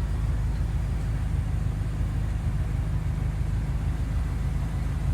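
Steady low rumble of the BMW M5's twin-turbo V8 idling, heard from inside the cabin.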